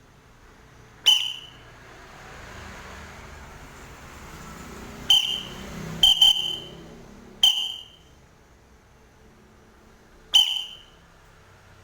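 A white-breasted woodswallow calling: about six short, sharp, high calls at irregular intervals, two of them in quick succession about six seconds in.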